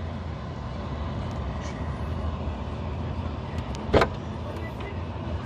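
10-litre dehumidifier running with a steady low hum, and a single sharp click about four seconds in.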